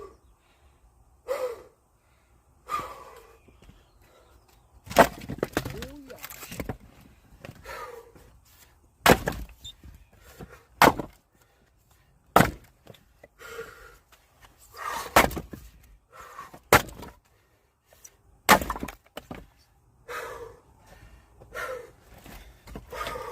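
An axe chopping and splitting firewood: sharp strikes every two to three seconds, each with a crack of wood, and softer knocks between them.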